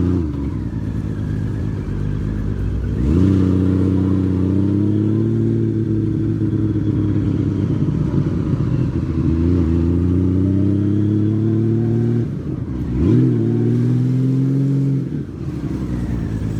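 Honda Valkyrie flat-six motorcycle engine running while riding, heard on the bike. The engine note jumps up about three seconds in and again around thirteen seconds, rising with the throttle, and drops back shortly before the end.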